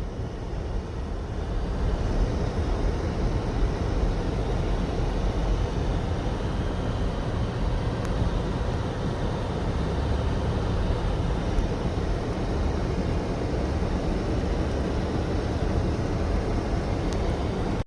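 Steady rumble of a car driving on the road, engine and tyre noise.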